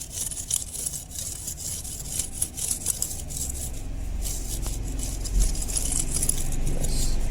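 A motor running with a fast, irregular rattle and clicking; a deeper rumble grows louder from about halfway through.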